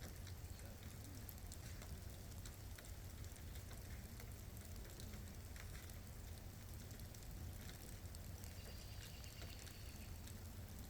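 Light rain falling steadily, with scattered drops ticking against a surface over a soft, even hiss and a low rumble underneath.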